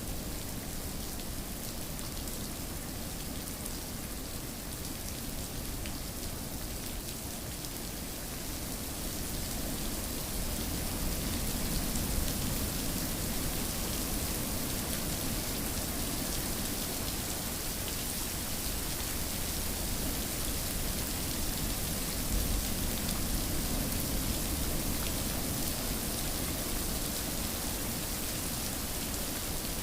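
Steady rain falling, an even continuous hiss of drops, growing a little louder about a third of the way in.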